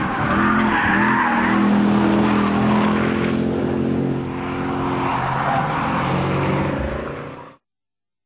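Carlsson-tuned Mercedes-Benz SLK's engine revving up and down as it is driven hard through corners, with tyre squeal. The sound cuts off suddenly near the end.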